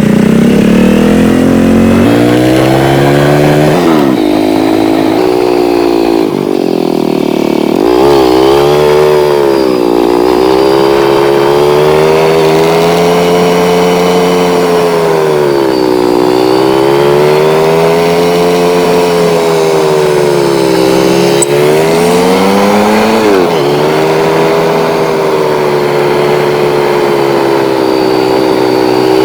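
Motorcycle engine running on the move, its pitch rising and falling as the revs change. The pitch drops suddenly several times, as at gear changes.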